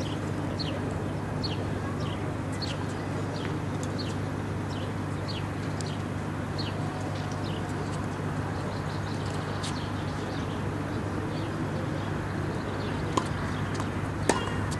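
Birds chirping again and again over a steady low hum of outdoor background noise. Near the end come a couple of sharp knocks, the louder one a tennis ball struck by a racket.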